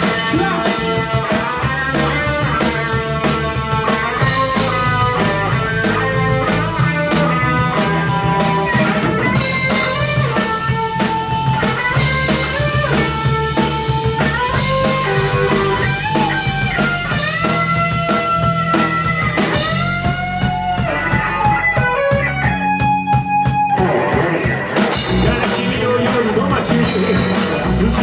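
Live rock band in an instrumental break: a lead electric guitar solo with bent notes over bass and drums. The drums drop out for a few seconds about 20 seconds in, then come back in.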